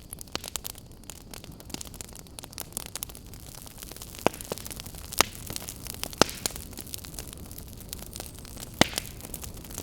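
Wood campfire crackling: a steady hiss of burning with many small snaps, and a few louder, sharper pops in the second half.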